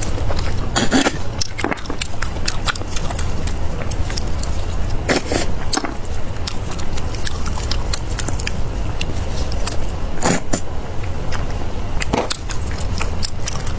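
A person biting and chewing crunchy fried food close to the microphone, in irregular crisp crunches, over a steady low hum.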